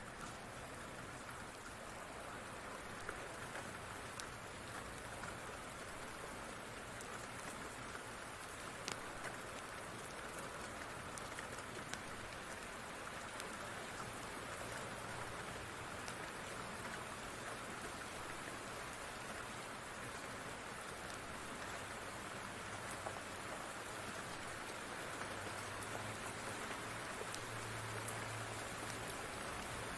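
Steady rain falling as an even hiss, with a few faint sharp clicks from a crackling wood fire.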